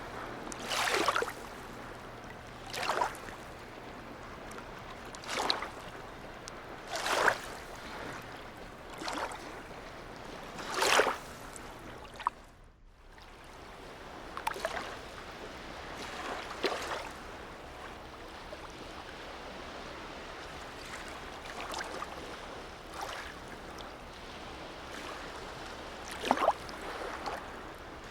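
Small harbour waves lapping against a quay or hull, with short slaps of water every couple of seconds over a steady wash.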